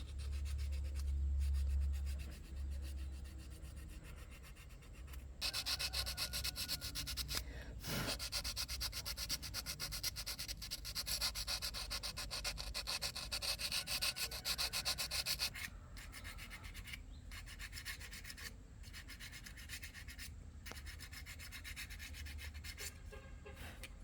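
Fast, even abrasive rubbing strokes, much louder and harsher for about ten seconds in the middle, with a low hum during the first couple of seconds.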